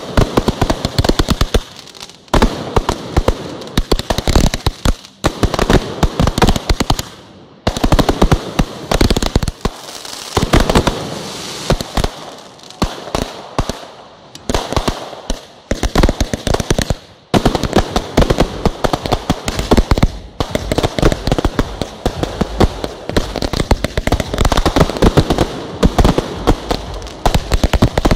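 Fireworks barrage: shells launching and bursting in rapid, dense volleys of sharp bangs, broken by a few short pauses.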